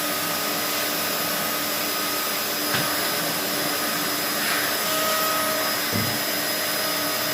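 A bagless vacuum cleaner running steadily with a whine, with two brief knocks. It has sucked up a piece of plastic and is clogging on it.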